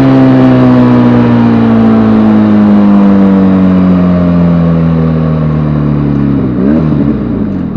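Vehicle engine slowing down, its pitch falling steadily as it decelerates, with a brief wobble in pitch near the end before it settles to a lower steady note.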